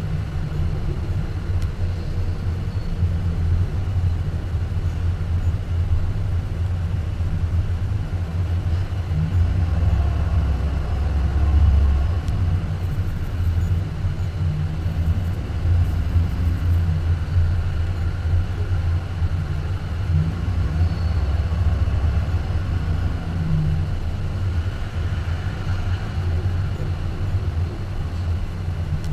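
BMW M4's twin-turbo straight-six running at low speed as the car creeps along, a steady low exhaust rumble that swells a little partway through.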